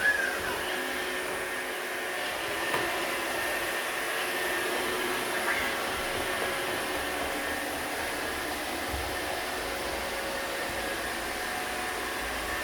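Roomba robot vacuum running with a steady whir. A few short chirping tones sound over it: at the start, about halfway through, and once sharply at the very end.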